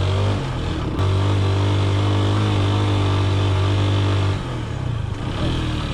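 Motorcycle engine running steadily under throttle, with a sudden jump just after a second in. The engine note eases and drops away about four and a half seconds in.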